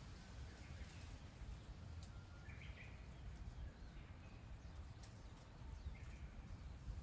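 Quiet rural ambience: a low steady rumble with a few faint, short bird chirps and some faint ticks.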